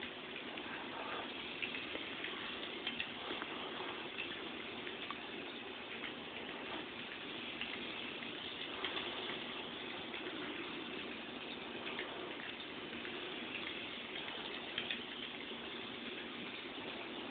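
Toy train running on its track on a tabletop: a steady rushing noise with scattered light clicks.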